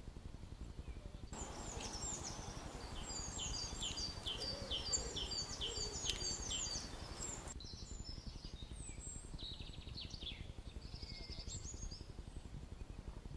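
Small birds singing: a run of repeated high chirps, about two a second, for some six seconds, then scattered high calls, over a steady low background rumble.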